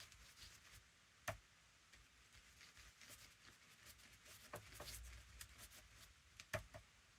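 Near silence with faint handling sounds while glue is spread in a thin layer on a journal cover: a few light ticks, about a second in, around the middle and near the end, and a soft rustle in the middle.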